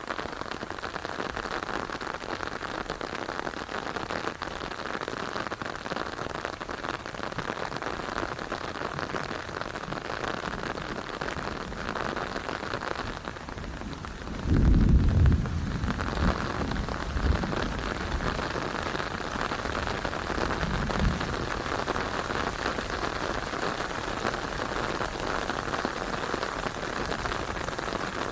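Steady rain falling, with a loud low rumble about halfway through and a shorter one a few seconds later.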